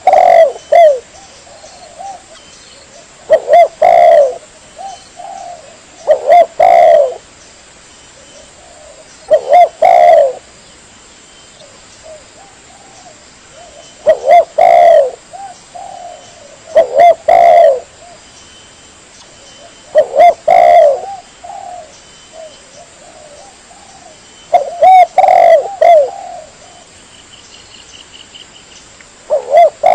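Spotted dove (tekukur) cooing: a short phrase of low coos repeats every three to four seconds, about nine times, played as a lure call to attract doves.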